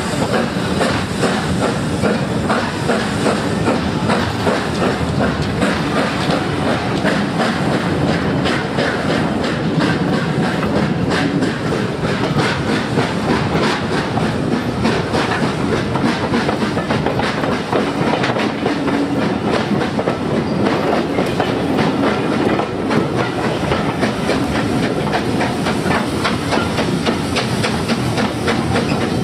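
Steam-hauled passenger train under way, heard from an open carriage window. The wheels clatter steadily over rail joints and pointwork, over a continuous rush of running noise.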